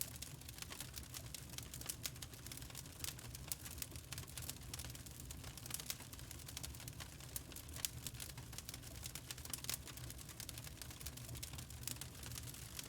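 Wood fire burning in a fireplace: a low steady rumble under frequent irregular sharp crackles and pops.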